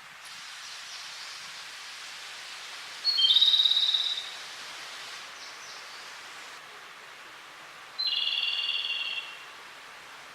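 Japanese robin singing two song phrases about five seconds apart, each a short high note followed by a rapid rattling trill, over a steady background hiss.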